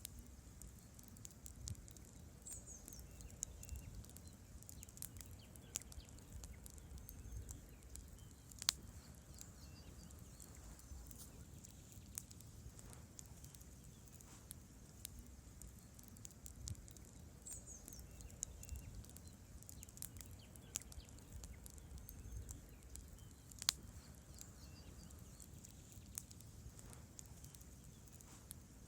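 Campfire of burning wood logs crackling, with irregular small snaps and pops over a low rumble of the flames. Two sharper, louder pops stand out, about nine and twenty-four seconds in.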